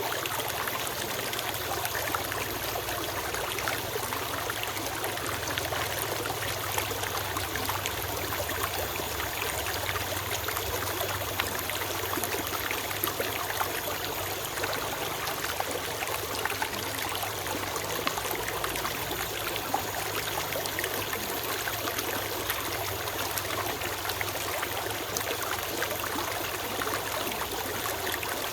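Forest stream flowing steadily over rocks, a continuous babble and trickle of water.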